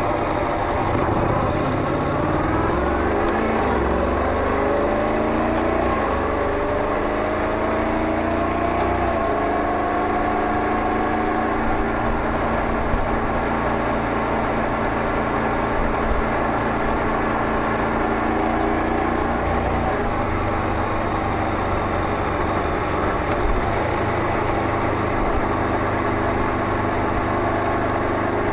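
Honda NC700X DCT's 670 cc parallel-twin through a Beams slip-on muffler. The note rises in pitch and drops back three times over the first nine seconds as it shifts up, then runs at a steady pitch.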